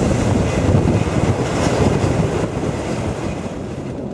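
Passenger train running along the track, a steady rumble of wheels and carriages with wind buffeting the microphone.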